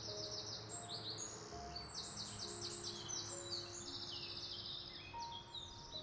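Birds chirping in quick repeated trills over soft background music with long held notes.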